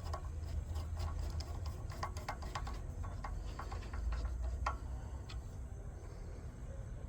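Irregular light clicks and ticks of metal parts and tools being handled, over a low steady rumble.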